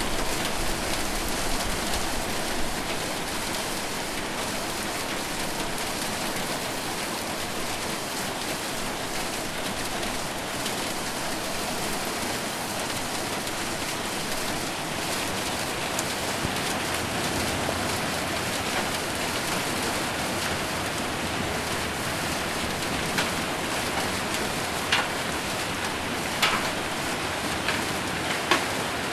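Heavy rain on a metal roof, a steady dense patter broken by a few sharper, louder hits that come more often near the end.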